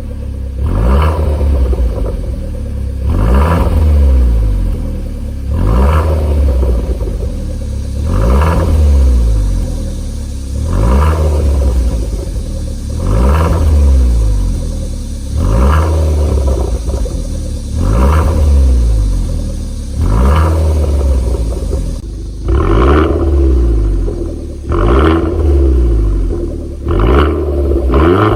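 Hyundai Genesis Coupe 2.0T's turbocharged four-cylinder engine revved over and over through a custom valved exhaust, a blip about every two seconds with the revs falling back after each. Near the end the blips come closer together over a steady drone.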